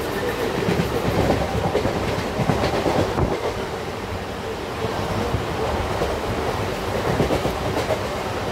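Indian Railways EMU local train running, heard from on board: a steady rumble with a dense, uneven clatter of wheels clicking over the rail joints.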